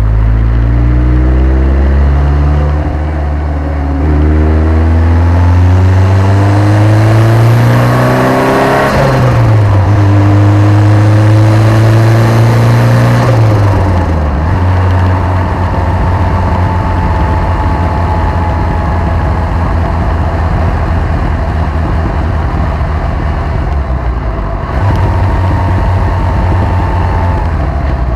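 1983 Lotus Esprit Turbo's turbocharged four-cylinder engine running, its revs climbing steadily for about eight seconds, then dropping back sharply twice, then holding a steady note.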